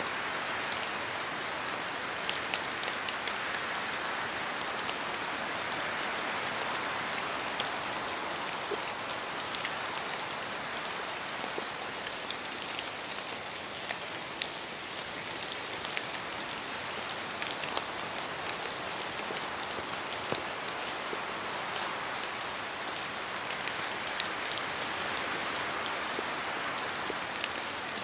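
Steady rain falling in a forest, a dense hiss scattered with many sharp drop ticks that swells and eases slowly.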